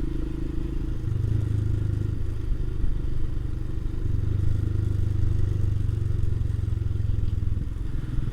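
Motorcycle engine running while riding along, its note stepping up and down a few times as the throttle and gears change, with some wind noise.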